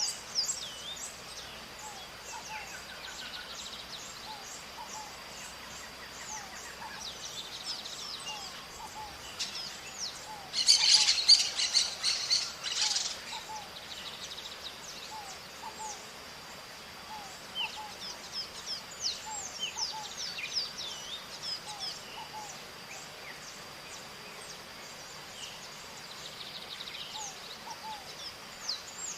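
Maritaca parrots calling: a flock of birds keeps up many short high chirps, broken about ten seconds in by a loud, harsh burst of screeching calls that lasts two or three seconds. A steady high thin tone runs beneath.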